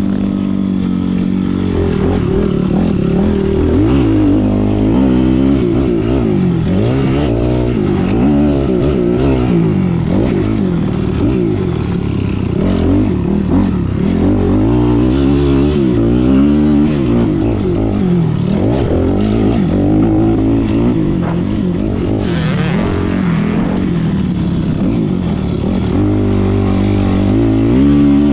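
Motocross dirt bike engine revving up and down over and over, the pitch climbing and dropping every second or two as the rider works the throttle around the track.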